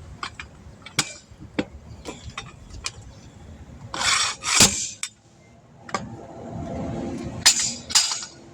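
Metal hand tools clinking and tapping in scattered single clicks during tire and valve stem work, with three short, louder noisy bursts: one about four seconds in and two near the end.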